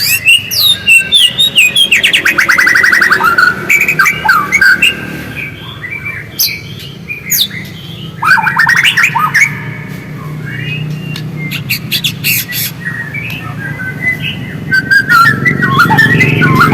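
White-rumped shama singing a loud, varied song of whistles and rapid trills, in bursts with short pauses. A low hum runs underneath and grows louder near the end.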